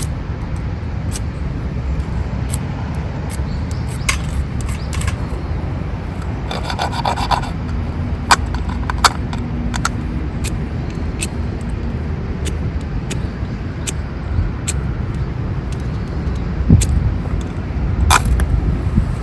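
Hand-worked scraping while relighting a campfire: irregular short rasping scrapes and sharp clicks, denser for about a second around the middle, over a steady low rumble.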